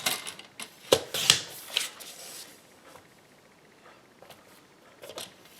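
Cardstock being cut and handled on a paper trimmer: several sharp clicks and short swishes of the cutter and paper in the first two seconds, then faint handling ticks.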